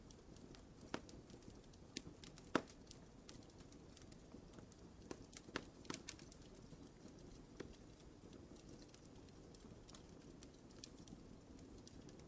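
Wood fire crackling: irregular sharp pops and snaps over a soft low hiss, with the loudest pop about two and a half seconds in and a small cluster around six seconds.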